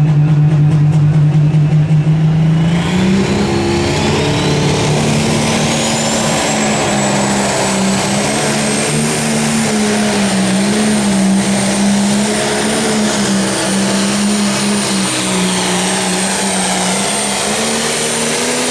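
Pro Stock pulling tractor's turbocharged diesel engine throttling up about three seconds in and running hard under load through the pull, its pitch wavering slightly. A high turbo whine climbs as it spools up and then holds high.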